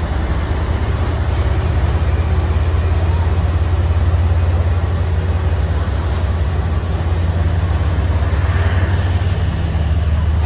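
Passenger train coaches rolling past at low speed as the train pulls out, a loud steady low rumble.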